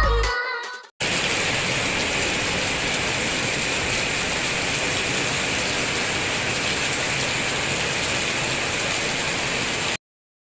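Steady rain falling: an even hiss that starts suddenly about a second in and cuts off abruptly near the end. The last of the electronic backing music fades out at the very start.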